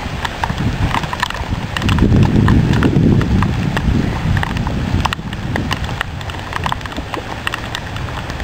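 Heavy rain, with many sharp, irregular ticks of drops striking close to the microphone, and a louder low rumble on the microphone from about two to five seconds in.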